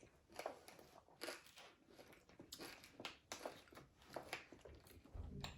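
Faint, close-miked chewing and crunching of crispy fried food, soft bites coming irregularly two or three times a second.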